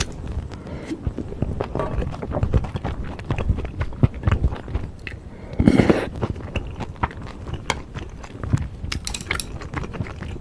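Close-miked chewing of beef bulgogi with bean sprouts and glass noodles: a steady run of wet mouth clicks and smacks. About six seconds in comes one loud slurp as broth is sipped from a cup.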